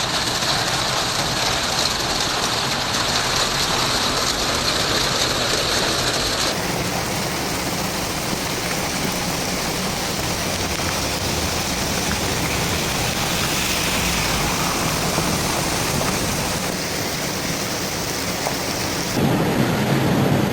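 Heavy rain pouring down as a steady, dense hiss. The sound changes abruptly about six seconds in, and near the end a louder, lower rush takes over.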